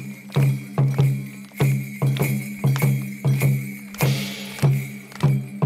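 Festival music of drums with jingling bells, a steady beat of about one drum hit every 0.6 seconds.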